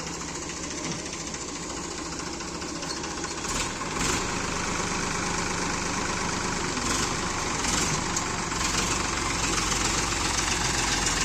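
Heavy diesel engine running, getting louder and heavier in the low end about four seconds in and again at about eight and a half seconds, as if taking on load.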